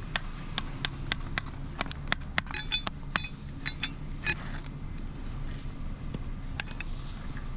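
Scattered sharp metallic clicks and clinks, a few ringing briefly, from metal tools or hydrant parts being handled, over a steady low hum.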